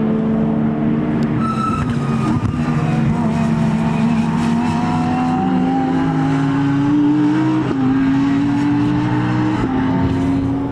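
Racing car engine under hard acceleration, its pitch climbing steadily and dropping sharply on two upshifts near the end.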